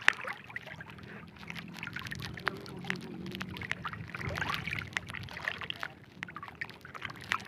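Water sloshing and dripping, with scattered small ticks and splashes over a steady low background rumble.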